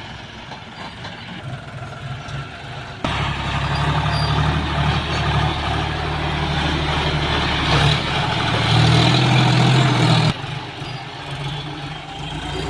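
Tractor engine running steadily. It gets suddenly louder about three seconds in and drops back suddenly just after ten seconds.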